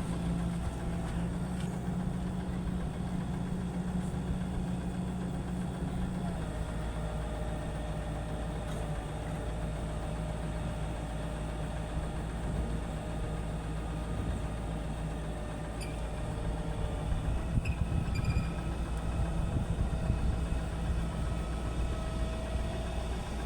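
A steady low engine hum, like an engine idling, with its pitch shifting about six seconds in.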